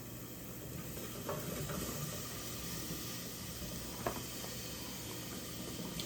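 Grapes being dumped into a cooking pot: a soft, steady rustling hiss with a few small knocks.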